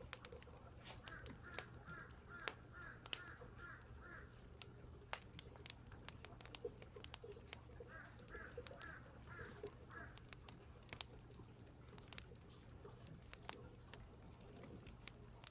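Crows cawing faintly in two runs of short repeated calls, about three a second, with scattered faint clicks over a steady low hum.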